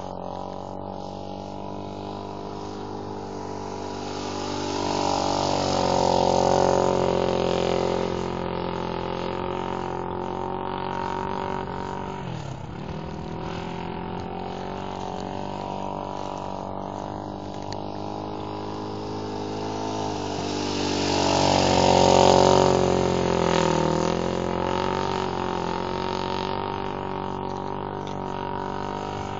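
Honda 450 motorcycle engine running, its pitch rising and falling with the throttle. It grows louder twice as the bike comes nearer, about six seconds in and again about twenty-two seconds in, and drops in pitch after each swell.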